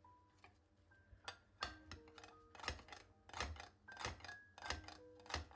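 A series of about seven light, sharp clicks or taps, spaced roughly evenly, over soft background music of sustained single notes.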